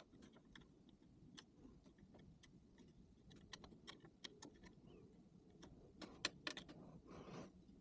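Small metal parts and tools clicking and tapping during close hand work on a VW Beetle's ignition points, with a brief scraping rub about seven seconds in.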